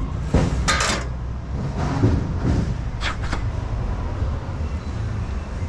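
Scrap metal clanking and clinking a few times, loudest about half a second in and again around three seconds in, over a steady low rumble.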